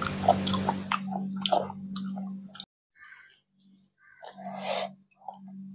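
Person chewing a mouthful of rice and kidney-bean curry eaten by hand, with small mouth clicks and smacks. A steady low hum runs under it and cuts off suddenly about two and a half seconds in.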